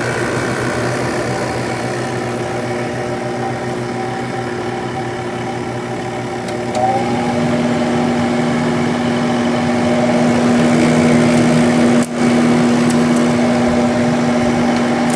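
1997 Sharp window air conditioner running, its Matsushita rotary compressor and Samsung fan motor giving a steady hum, with the fan motor's bearing noise, which the owner says it has made for years. About seven seconds in, a louder steady hum tone comes in and the sound grows louder.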